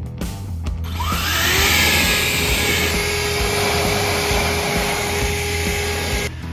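Electric air blower drying the car: the motor spins up with a rising whine about a second in, runs as a loud steady rush of air, and cuts off abruptly shortly before the end.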